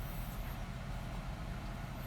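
Steady low background rumble, even throughout, with no distinct strokes or knocks.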